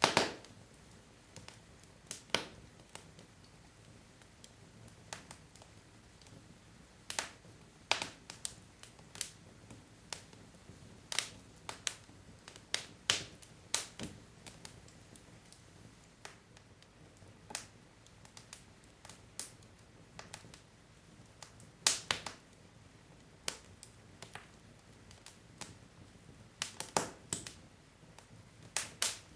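Wood logs burning in a fireplace, crackling and popping at irregular moments over a low steady hiss of the fire, with a few louder sharp pops.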